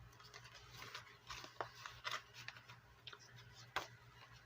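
Faint rustling and a scatter of light clicks and taps from paper and envelopes being handled.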